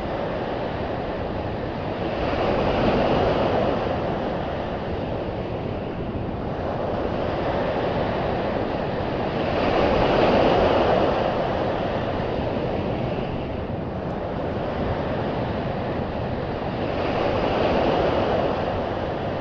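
Strong storm wind blowing hard, rising in three long gusts several seconds apart.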